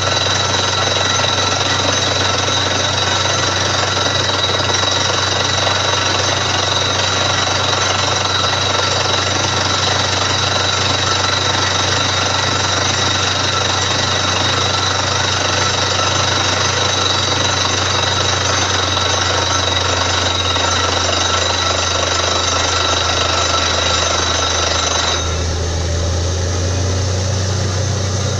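Borewell drilling rig running, a loud, steady hammering rattle over the deep drone of its engine. About three seconds before the end, the higher rattle and whine drop away and the engine drone carries on.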